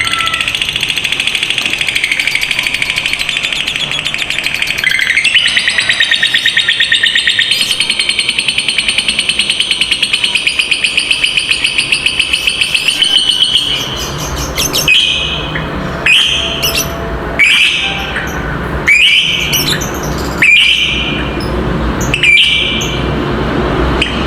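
Lovebird giving a long ngekek: a rapid, unbroken high chattering trill for about fourteen seconds, then a string of about six separate shrill calls, one every second and a half or so.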